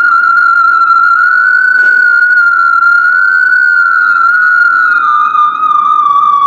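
Homemade theremin holding one high tone that wavers slightly and slowly sinks in pitch towards the end.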